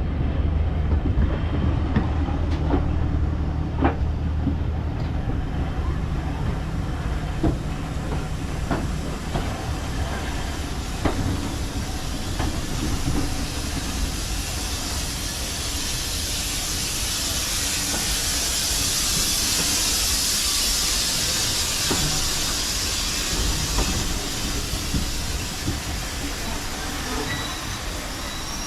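Steam locomotive at close range: scattered metallic knocks and clanks over a low rumble, then a loud hiss of escaping steam that swells through the middle and slowly dies down.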